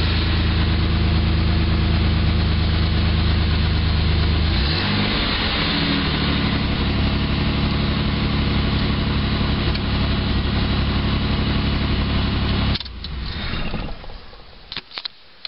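Rebuilt engine of a 1993 Chevy S10 Blazer, heard from inside the cab, running on its stock exhaust manifolds before headers are fitted. It settles to a slightly different pitch about a third of the way in, runs steadily, then is switched off and stops abruptly near the end, followed by a few small clicks.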